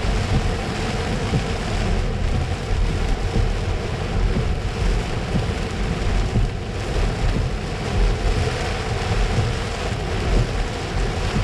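Steady rumble of road vehicles, with wind buffeting the microphone.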